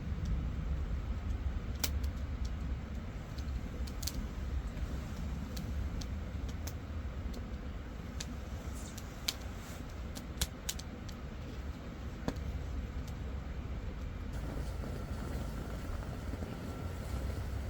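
Burning firewood crackling now and then, a dozen or so sharp pops, over a steady low rumble.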